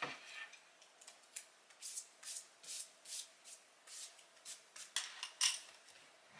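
Quick, rhythmic swishing strokes of something rubbing or brushing across a surface, about two to three a second, with a sharper stroke near the end.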